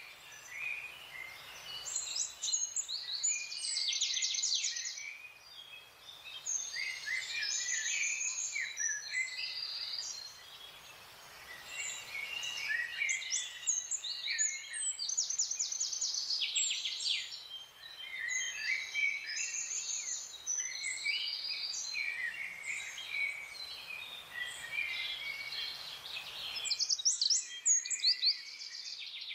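Several wild songbirds singing and calling at once, with overlapping short chirps and rapid trills of fast-repeated high notes, over a faint steady background hiss. The chirping is loudest near the end.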